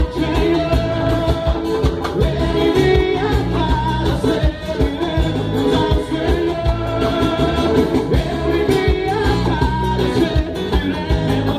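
A band playing live with a singer, Latin-style music with a steady bass beat.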